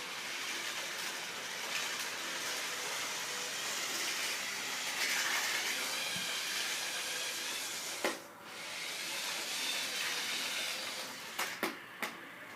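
Lego toy train running along its track, a steady hissing whir, with a sharp click about eight seconds in and three quick clicks near the end.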